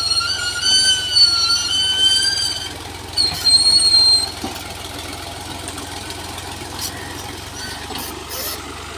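A tractor engine running steadily, with a high-pitched squeal over it for the first two to three seconds and again briefly about three seconds in.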